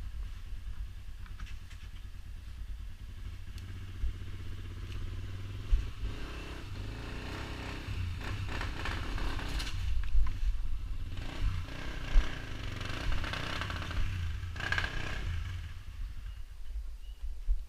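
Off-road vehicle engine running and revving, building up over several seconds and dropping away near the end, over a steady low rumble, with a few sharp knocks and rattles.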